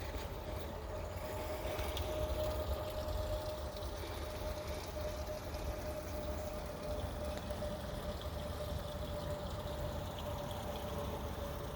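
Water running and trickling steadily, with a faint steady hum under it.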